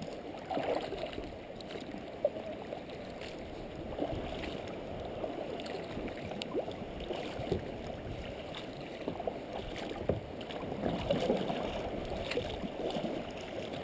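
Water sloshing and gurgling against a kayak's hull, with a few light knocks.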